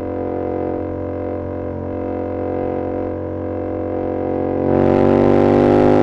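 2022 Yamaha R7's 689 cc parallel-twin engine through an SC-Project CR-T exhaust, running at steady revs under way, then growing louder as the throttle opens nearly five seconds in, with the revs climbing slowly.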